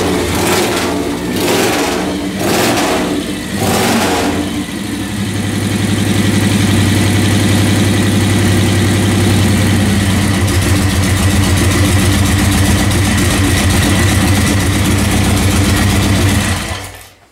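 Freshly built 45-cubic-inch flathead V-twin motorcycle engine running on one of its first starts. It surges with a few quick throttle blips over the first four seconds, then runs steadily, and the sound fades out near the end.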